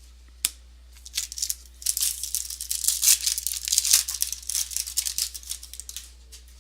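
Trading cards and their packaging being handled: a sharp click about half a second in, then several seconds of dense, rapid rustling and crinkling.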